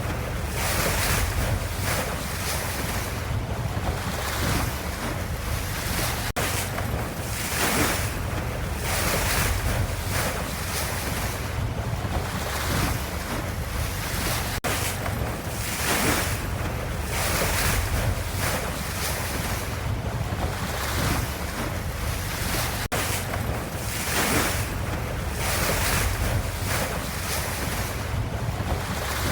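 Ocean waves: repeated swells of hissing wash every second or two over a steady low rumble. The same few seconds recur about every eight seconds, as a looped recording.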